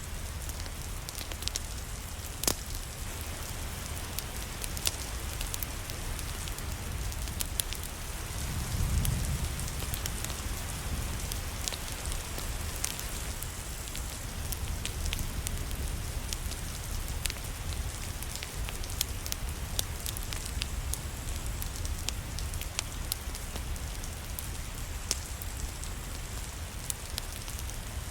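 Steady rain with scattered sharp crackles and pops from a wood fire. A low rumble swells briefly about nine seconds in.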